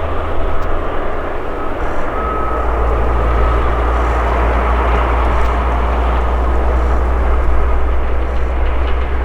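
Airbus A330-300 jet airliner with Rolls-Royce Trent 700 engines running at low power while it taxis after landing: a loud, steady rumble and rush. A thin whine fades out a couple of seconds in.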